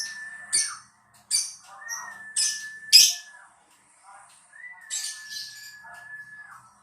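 Lovebird calling in a lure (pancingan) recording meant to draw other lovebirds into answering: short, sharp, high chirps in clusters, the loudest about three seconds in. Running beneath them is a long level whistle-like note that repeats about every two seconds and dips at its end.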